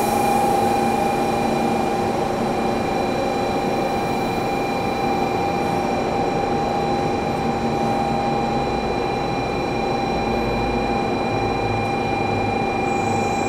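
An N700S Shinkansen trainset standing at the platform, its onboard equipment giving a steady hum with several constant whining tones over an even rushing noise.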